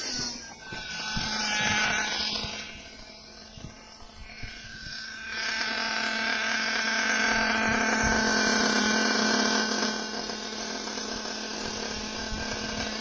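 Small RC car motor running with a high, drill-like whine. It dips around three to five seconds in, then runs steady and louder.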